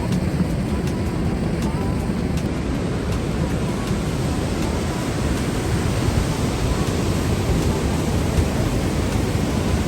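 Steady rush of white water from the Merced River below Vernal Fall, an even noise at a constant level.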